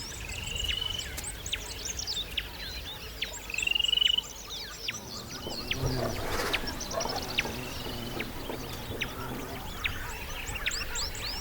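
Savanna birdsong: many birds chirping and calling over one another, with several short rising trills. A lower, harsher call runs through the middle.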